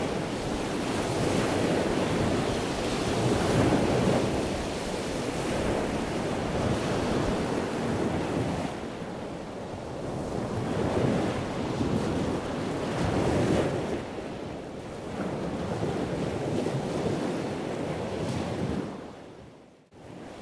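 Rushing water noise that swells and ebbs every few seconds, like surf, fading out near the end.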